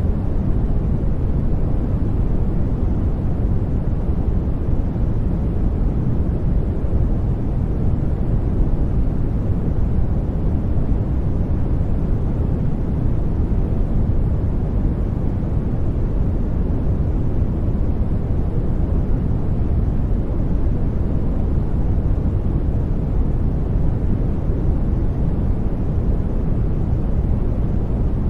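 Steady sleep noise track, an unchanging deep, muffled rumble with little hiss.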